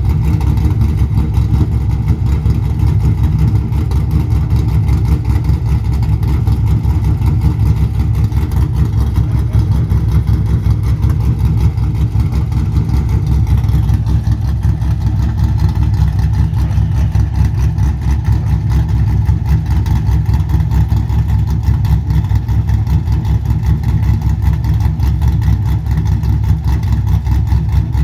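Camaro Z28 V8 idling steadily on a 227/231 aftermarket camshaft while it warms up after a cold start. The engine is a 6.0-litre LS with an LS3 top end, and the idle is a dense, even low pulsing.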